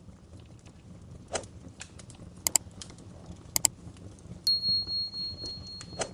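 Wood fire crackling in a fireplace: scattered sharp pops and snaps, the loudest a couple of quick double pops. About two thirds of the way through, a thin high whistle holds steady for about a second and a half.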